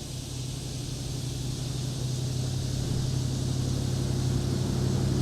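A motor vehicle's engine hum with a steady pitch, growing slowly and evenly louder as it approaches on the road.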